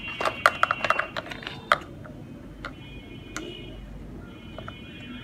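Plastic toy cargo truck being handled: a quick run of sharp plastic clicks and knocks in the first two seconds, then a few scattered clicks.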